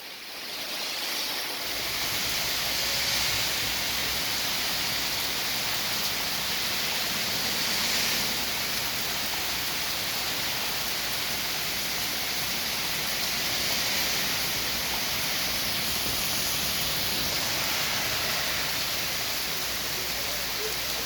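Heavy rain pouring down: a dense, steady hiss that comes up about a second in and holds even throughout.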